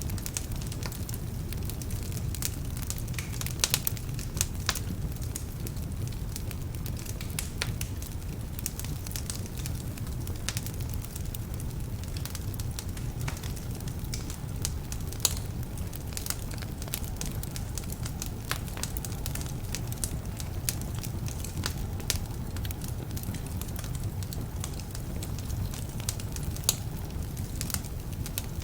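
Wood fire burning in a fireplace: a steady low rumble of flames with frequent sharp, irregular crackles and pops from damp logs.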